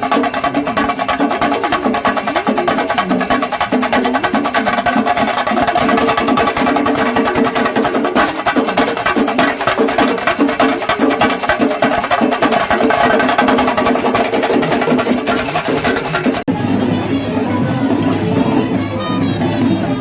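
Loud festival procession music: fast, dense drumming over steady pitched tones. About sixteen seconds in it changes abruptly to a different piece with gliding pitched tones.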